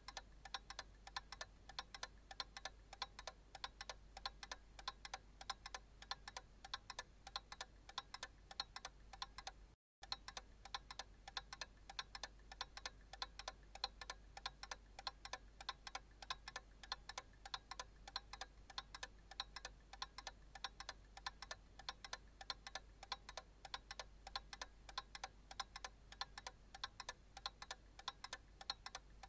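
Analog clock ticking steadily, even sharp ticks over a faint low hum, with a brief break in the sound about ten seconds in.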